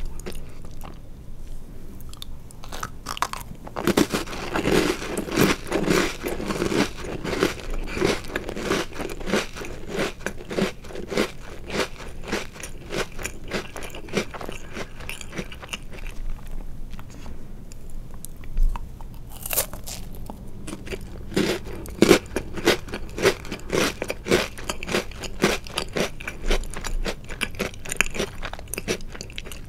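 Close-miked crunching and chewing of chocolate-covered Oreo cookies, rapid crisp crackles in rhythmic runs of bites and chews, with one sharp crack of a fresh bite about twenty seconds in.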